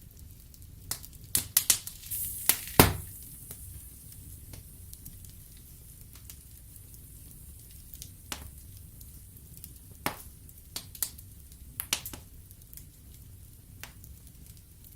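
Wood fire in a fireplace burning with a low steady rumble and sharp crackles and pops of the logs, a quick cluster of loud pops in the first few seconds with a brief hiss, then scattered single pops.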